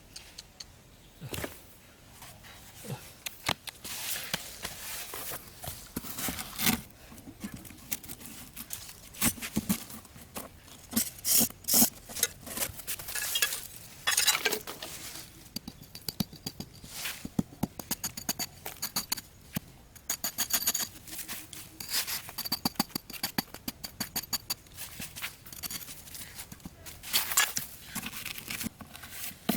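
Hands handling and working trap materials: irregular clicks, taps, scrapes and rustling, with several sharper knocks.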